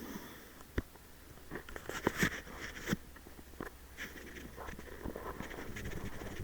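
A handful of sharp clicks and knocks over soft rustling, the loudest cluster about two to three seconds in.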